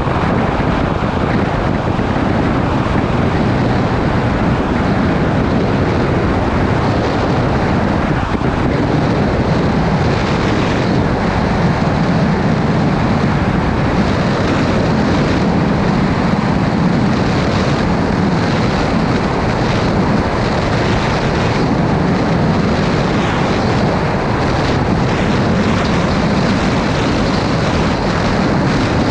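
Motorcycle riding at a steady cruising speed: its engine running evenly under a constant rush of wind over the microphone.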